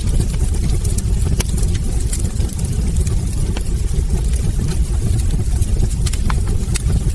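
Wood fire burning in a hearth: a steady low rumble of the flames with frequent small, sharp crackles and pops from the logs at irregular intervals.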